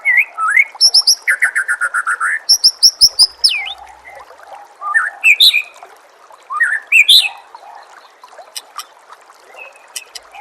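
White-rumped shama singing a varied song of loud whistles: rising whistled notes, then fast series of repeated notes in the first few seconds, and two short sharp phrases later on, with only faint clicks near the end. Trickling water runs steadily underneath.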